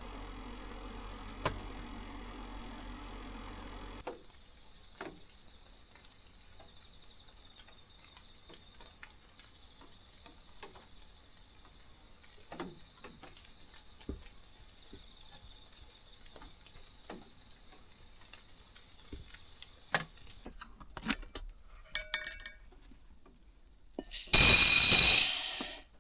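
Quiet handling sounds: scattered light clicks and clinks of small objects, then a loud hissing rush lasting about a second and a half near the end.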